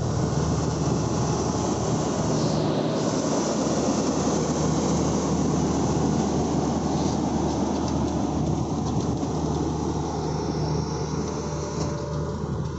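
Pakistan Railways passenger coaches of a departing train rolling past, wheels running on the rails in a steady rumble with a constant low hum.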